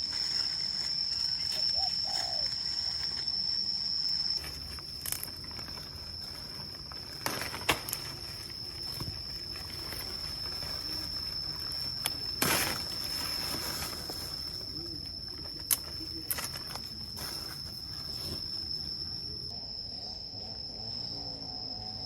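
Steady high-pitched insect drone, like crickets chirring, with a dove cooing once about two seconds in. A few sharp knocks or taps come through, the loudest about halfway through.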